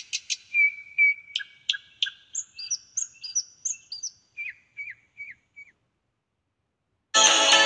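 Bird chirps: a string of quick high chirps and short falling whistled notes that fade away. After about a second of silence, music starts abruptly near the end.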